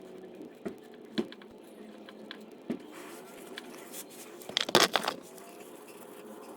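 Scattered sharp metallic clicks and knocks, then a louder, irregular cluster of rattling clicks about five seconds in: hand tools and fittings being handled during clutch hydraulic work under a car.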